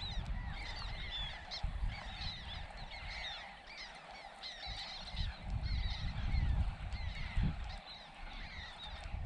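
Many birds calling at once, a dense run of short chirping calls, over a low rumble of wind on the microphone.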